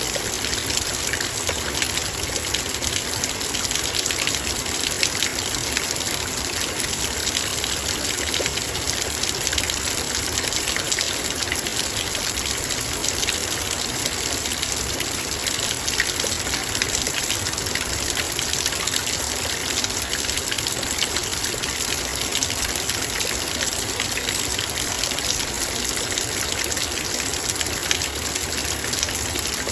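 Heavy rain falling steadily on a metal bowl, a dense, even patter of drops striking the metal.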